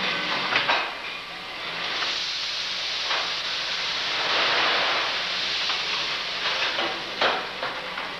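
Stationary steam machinery running: steam hissing, swelling louder in the middle, with a low hum beneath and a few sharp mechanical clicks and knocks.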